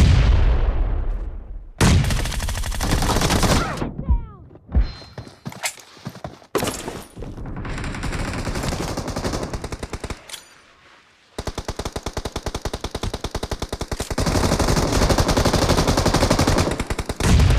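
Video-game automatic gunfire in rapid, sustained bursts, with a short lull about ten seconds in before a long final burst.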